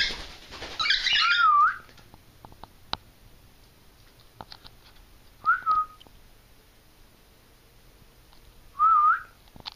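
Cockatiel whistling: a raspy chirp followed by a wavering whistle in the first two seconds, then two more short wavering whistles, about five and a half and nine seconds in.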